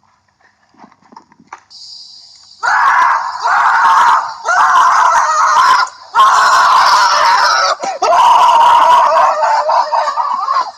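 Four long, loud screams in a row, each lasting over a second, starting a couple of seconds in.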